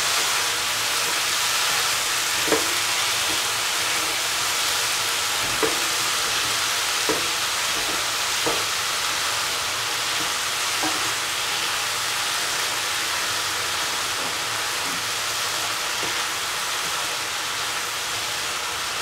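Chicken and cauliflower pieces sizzling steadily in a frying pan as they are stirred, with the spatula knocking against the pan a few times.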